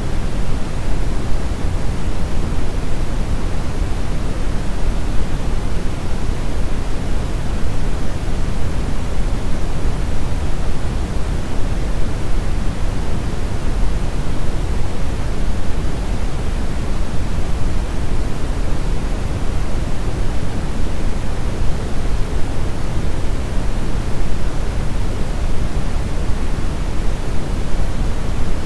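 Brown noise: a steady, even, deep rushing hiss with most of its weight in the low end and little treble, unchanging throughout.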